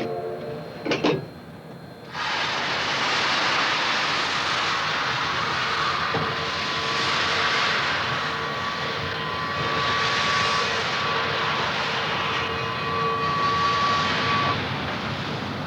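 Steam locomotive letting off steam: a loud steady hiss that starts about two seconds in, with a faint steady tone under it. A short knock comes about a second in.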